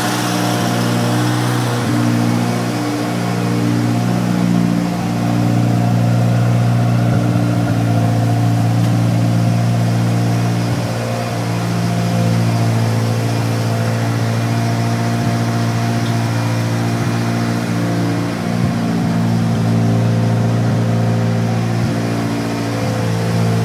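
Stock Mitsubishi 4G63T turbocharged inline-four in a DSM rally car idling steadily, its pitch holding level throughout.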